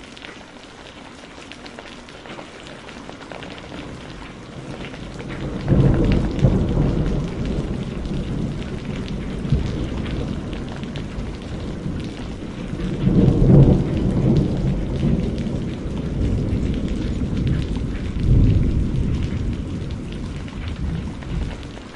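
Steady rain with a long roll of thunder that breaks in about six seconds in, swells again twice and dies away near the end.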